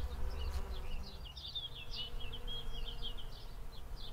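A small songbird twittering in quick, high chirps and short glides, over a faint steady hum that fits a bumblebee buzzing at a thistle flower, with a low rumble underneath.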